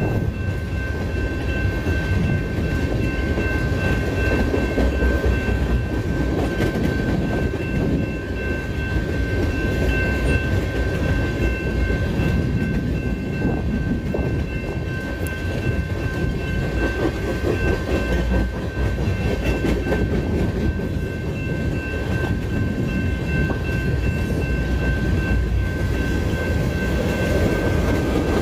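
Long mixed freight train rolling steadily past, wheels rumbling and clattering over the rails, with a steady high-pitched tone held throughout.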